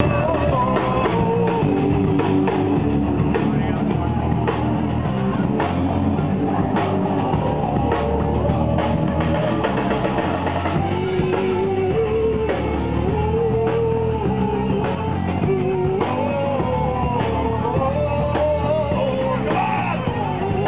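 A rock band playing live: electric guitar and a drum kit, with a sustained melody line wandering over the top.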